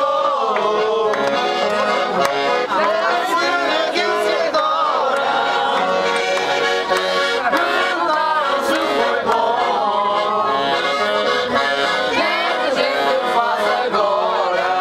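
Accordion playing a traditional folk tune, with steady held chords under a moving melody.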